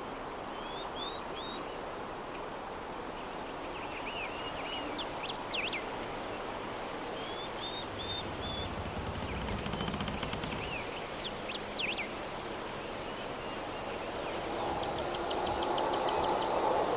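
Soft steady breeze with small birds chirping on and off: short quick chirps and downward sweeps, and a rapid trill near the end. A low rumble passes through the middle, and a steady mid-pitched animal sound joins in the last couple of seconds.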